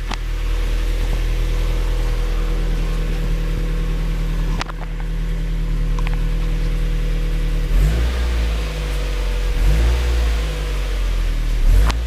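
1999 Mazda MX-5 Miata's 1.8-litre four-cylinder engine running steadily on a cold start, then revved in a few short throttle blips, rising and falling, over the last four seconds.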